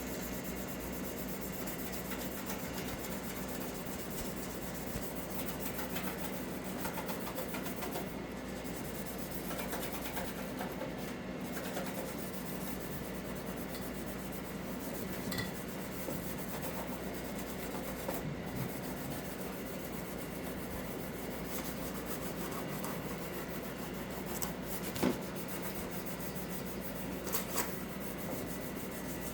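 Scouring pad scrubbing a surface with a steady, continuous rubbing sound, with a few faint ticks and one sharper click about 25 seconds in.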